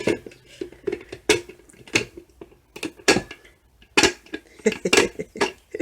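A series of irregular sharp clacks and knocks as a hard ornament shell is cut and worked apart with a heated cutting tool.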